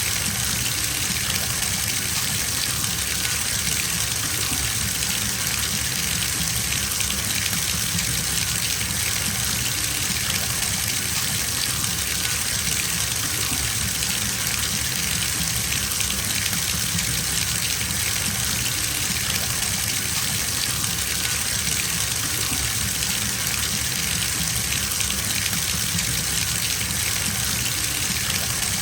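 Water gushing steadily from a bathtub tap into the tub as it fills, an even rushing hiss that does not change.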